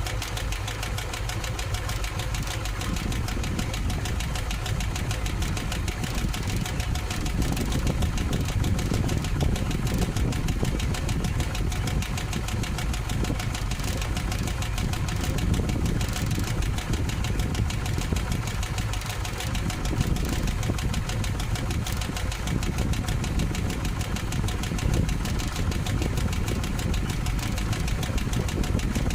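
1958 Plymouth engine idling steadily with a fast, even ticking mixed into its running: an exhaust tick that the owner suspects is a manifold or exhaust flange leak.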